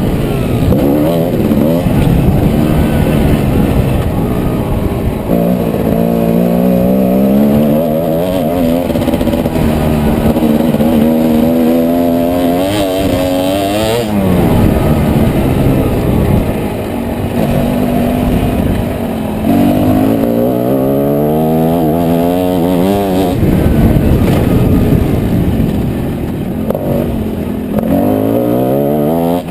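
Motocross dirt bike engine revving hard and easing off as it is ridden around a track. The pitch climbs and falls again and again, with sudden drops at the gear changes.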